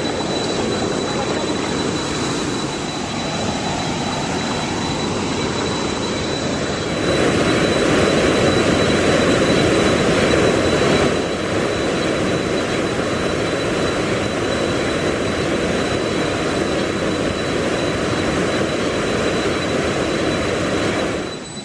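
Waterfall: a steady rush of falling water, louder between about 7 and 11 seconds in, that drops off sharply near the end.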